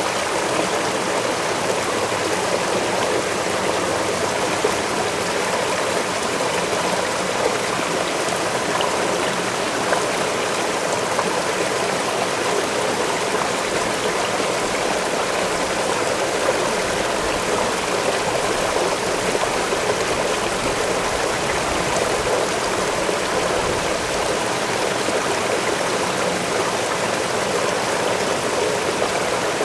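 Waterfall pouring steadily: an even, unbroken rush of falling water, with a slightly louder splash now and then.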